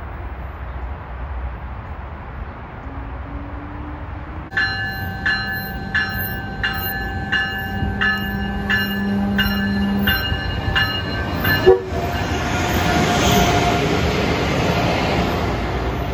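Amtrak Acela Express trainset: first a low, steady rumble as it approaches from afar. Then a bell rings steadily, about a strike and a half a second, over a steady hum for some six seconds. After a sharp clank the train pulls out, and a rising rush of motors and wheels follows.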